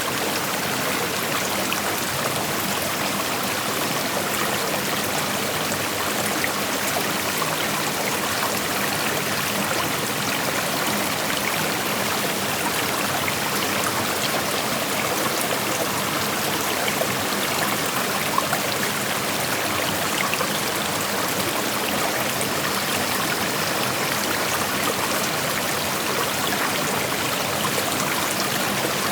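Shallow creek flowing steadily over rocks: a continuous rushing and splashing of water, with fine droplet-like flecks through it.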